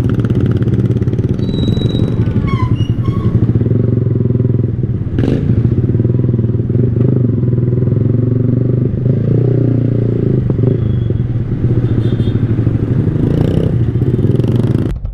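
Sport motorcycle engine running steadily at low speed in second gear through traffic, with a single sharp knock about five seconds in.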